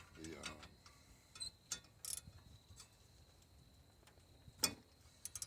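A few separate light clicks and taps of hand tools and metal parts being handled on an engine, the loudest about four and a half seconds in.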